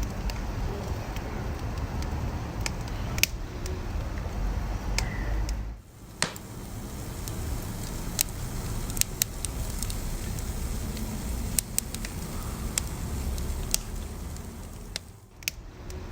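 Wood fire crackling: sharp pops and snaps scattered over the steady low rumble of the flames, with the sound dipping briefly twice, about six and fifteen seconds in.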